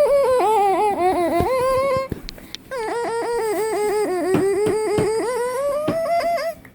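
A person making silly wordless vocal noises: two long warbling notes, the first about two seconds long and the second about four, each sliding down in pitch and back up with a rapid flutter running through it.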